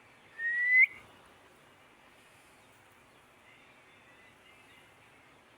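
Indian ringneck parakeet giving one short, loud rising whistle that sweeps up sharply at its end, followed a few seconds later by a few faint chirps.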